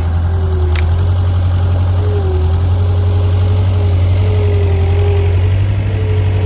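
Skid steer engine running steadily: a deep, even drone with a fainter tone above it that wavers slightly in pitch. A single sharp click sounds about a second in.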